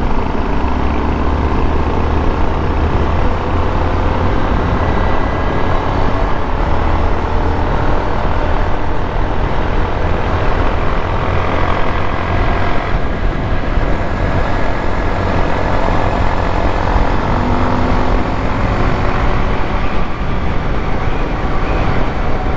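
Honda XRE 190's single-cylinder engine running steadily while the motorcycle is ridden, with wind and road noise over it. There is a brief dip in the sound about 13 seconds in.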